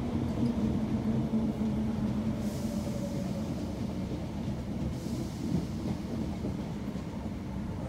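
Class 319 electric multiple unit heard from inside the carriage while running: a low rumble of wheels on rail with a steady motor hum, getting gradually quieter.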